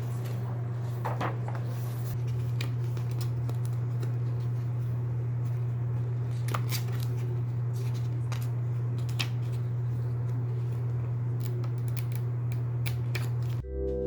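Scissors snipping and paper being handled: scattered light clicks and rustles over a steady low hum. Music starts near the end.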